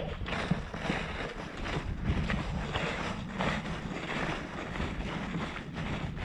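Wind buffeting the microphone in gusts, a rushing noise that swells and fades every second or so.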